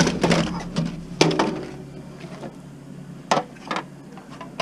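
Knocks and clicks from a Sony iPod docking station's plastic casing being handled and opened up by hand. There are a few sharp, separate knocks: several in the first second and two more a little after three seconds in.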